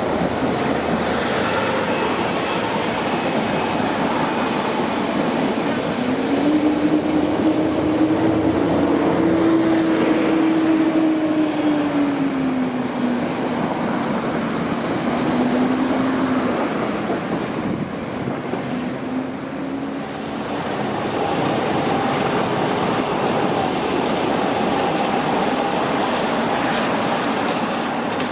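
Electric multiple-unit train running through the station, a steady rumble of wheels on track. A low whine rises and then falls in pitch from about six to twenty seconds in.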